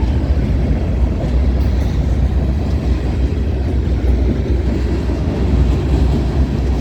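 Freight train passing close by: a loud, steady rumble of wheels and cars rolling on the rails, heaviest in the low end.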